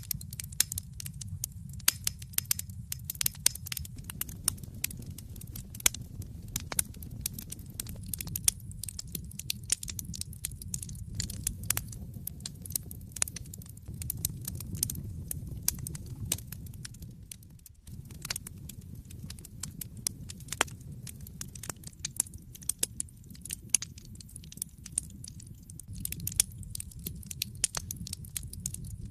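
Wood fire burning in a fireplace: dense, irregular crackling and popping over a steady low rumble of the flames. The sound dips briefly about two-thirds of the way through.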